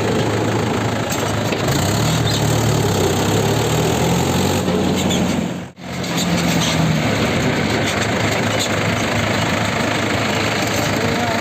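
Tractor's diesel engine running steadily while under way, heard from on board. The sound cuts out for an instant about halfway through.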